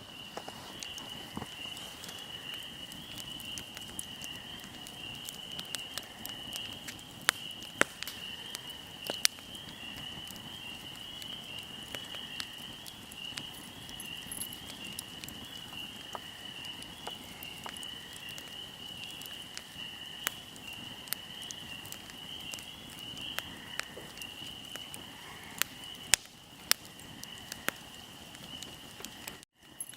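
Fire crackling, with scattered sharp pops and a few loud snaps about a quarter of the way in and again near the end, over a steady, pulsing high chirring of insects.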